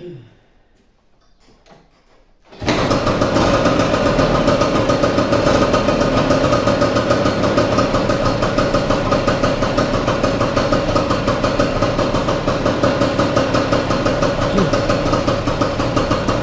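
Vespa 150's two-stroke single-cylinder engine starting about two and a half seconds in and settling into a steady, even idle. The engine has been rebuilt after a broken elastic pinion (the sprung primary drive gear) made a loud noise, and it now runs smoothly, "un reloj suizo" (like a Swiss watch).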